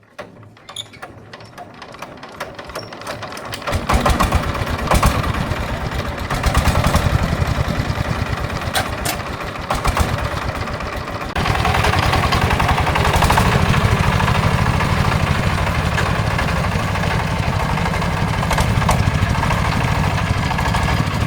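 Tractor engine starting and then running steadily, with quick knocks building over the first few seconds as it catches. It gets louder about eleven seconds in.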